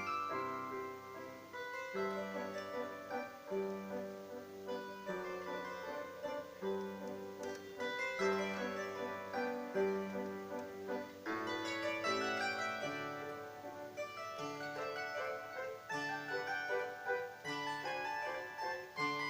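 Bandura, the Ukrainian plucked-string instrument, played solo: a plucked melody over a repeating bass accompaniment, with a fuller chord about eleven seconds in.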